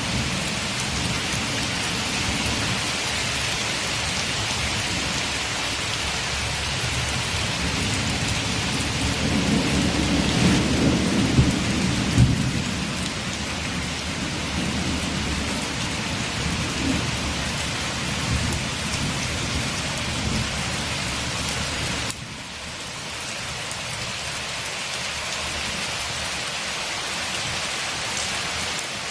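Steady rain falling on a window, with a low roll of thunder swelling and fading about ten seconds in. About two-thirds of the way through the sound drops abruptly and the low rumble falls away, leaving a thinner, steady rain hiss.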